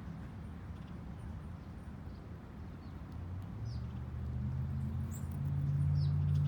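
A few faint, short, high chirps from small backyard birds, each dropping in pitch, over a low engine drone that swells louder in the second half.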